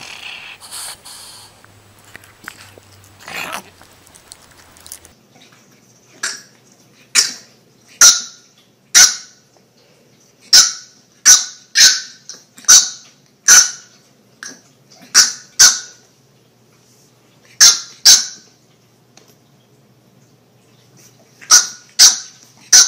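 Bulldog puppy barking at a cat: about twenty short, loud, high-pitched yaps, coming singly and in quick pairs, starting about six seconds in.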